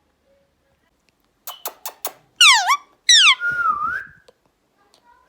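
Indian ringneck parrot calling: a few sharp clicks, then two loud whistles that each fall steeply in pitch, followed by a short wavering call.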